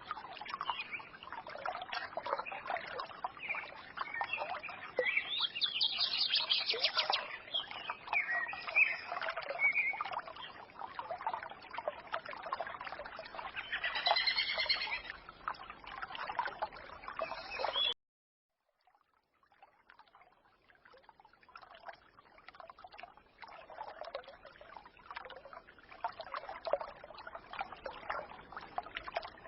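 Small stream trickling and babbling, with small birds chirping and twittering over it. The sound cuts out suddenly about two-thirds of the way through, then the trickle fades back in with fewer bird calls.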